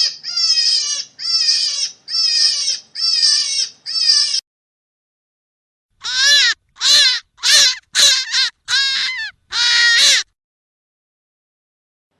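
Short, harsh animal calls repeated in two runs of about six each, with a pause between them and the second run sounding different from the first.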